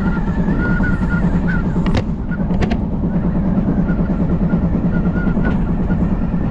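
Odakyu Line commuter train running, heard from inside: a steady low rumble and hum with a faint wavering whine above it, and a few sharp clicks about two seconds in.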